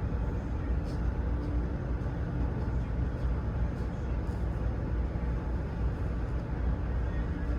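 Steady low rumble of idling vehicle engines, with a few faint clicks.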